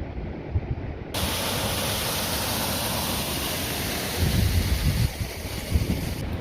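Wind buffeting the microphone in low rumbling gusts. About a second in, a steady loud hiss cuts in abruptly, with stronger gusts of rumble in the second half.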